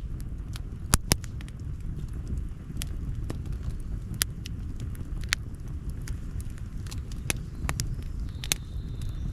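Wood campfire crackling: irregular sharp pops and snaps, two loud ones close together about a second in, over a steady low rumble.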